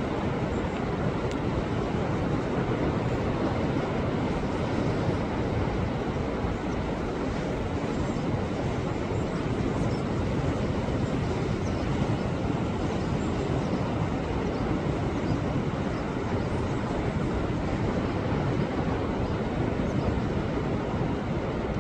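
Sea waves surging against a rocky shore: a steady, dense rush of surf without distinct breaks between waves.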